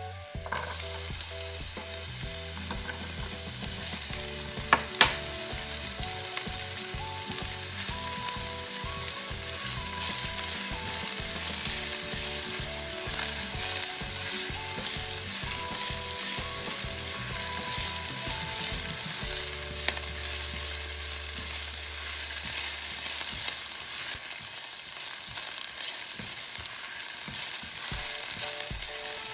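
Chopped red onion going into hot oil with frying ginger strips and sizzling hard, the sizzle jumping up just after the start as the onion lands. It is then stirred around the nonstick pan with a silicone spatula, with one sharp click about five seconds in.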